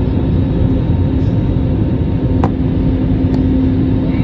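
Airliner cabin noise during the descent to landing: a loud, steady rumble of engines and airflow with a steady hum. A single sharp click about two and a half seconds in.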